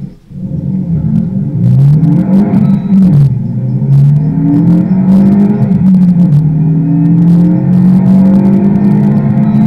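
Renault Mégane R.S. 275 Trophy's 2.0-litre turbo four-cylinder accelerating hard through an Akrapovič titanium exhaust. The engine note rises, drops at an upshift about three seconds in, then climbs slowly in the higher gear, with short crackles over it.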